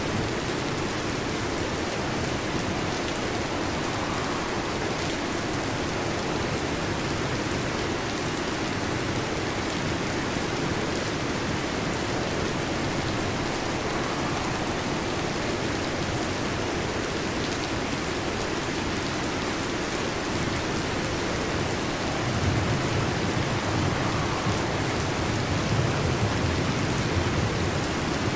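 Heavy rain falling steadily on a metal roof, with a low rumble of thunder swelling in about three-quarters of the way through.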